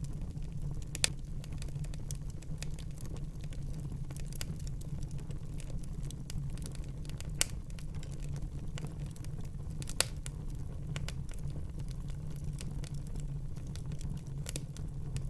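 Wood fire burning in a fireplace: a steady low rumble of flames with scattered small crackles and three sharper pops spread through it.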